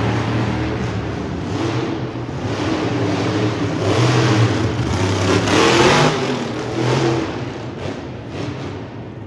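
Monster truck engine revving hard, its pitch rising and falling, loudest about six seconds in and fading near the end.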